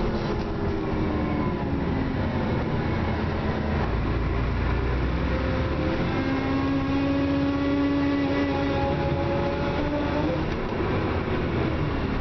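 Dennis Trident double-decker bus running, its drivetrain giving several pitched whines over a steady low rumble: the whine falls near the start and climbs again from about halfway through as the bus speeds up. This is the weird acceleration noise of a clapped-out bus.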